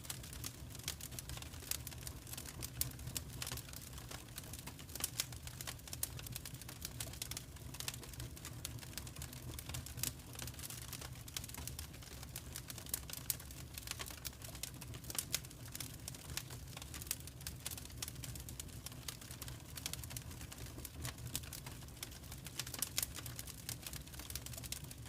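Wood fire crackling and popping in a fireplace: irregular sharp snaps over a steady low rumble of burning.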